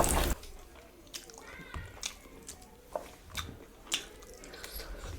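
Close-miked eating: chewing with a few sharp, wet mouth clicks and smacks at irregular intervals. A louder rustling noise cuts off right at the start.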